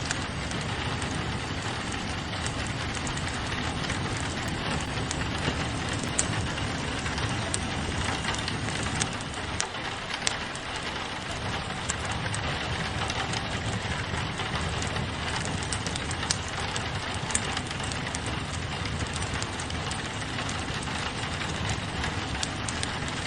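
Steady rain pattering on a window, mixed with a crackling wood fire that gives scattered small pops and clicks.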